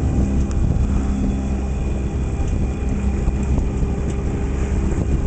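A sailboat's engine running steadily, motoring along with an even low drone and a constant hum.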